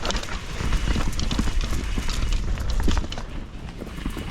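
Enduro mountain bike descending a rough, wet trail: a constant irregular rattle and knocking from tyres, suspension and frame over roots and rocks. A low rumble of wind on the microphone runs underneath.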